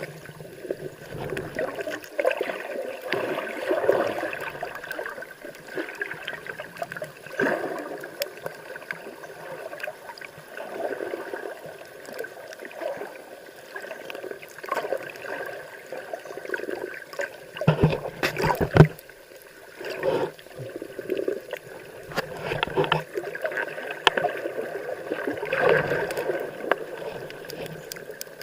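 Water sloshing and gurgling in uneven surges, with a short cluster of knocks about two-thirds of the way through.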